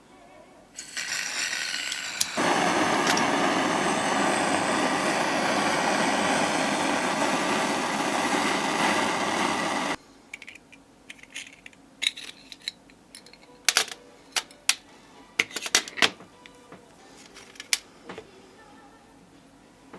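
A steady, loud rushing noise from a workshop tool begins about a second in, gets louder soon after, and cuts off suddenly about halfway through. It is followed by scattered small clicks and taps of metal parts being handled.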